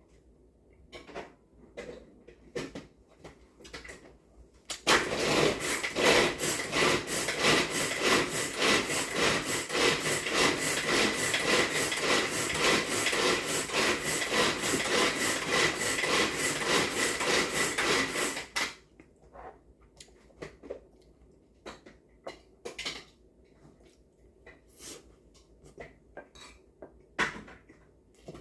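Kitchen sounds: light clinks and knocks of dishes and utensils, broken by a loud steady rushing noise that starts suddenly about five seconds in and stops abruptly about fourteen seconds later.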